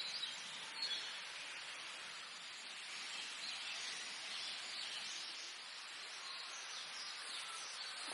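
Quiet outdoor ambience: a steady hiss-like background with a few faint bird chirps in the first second or so.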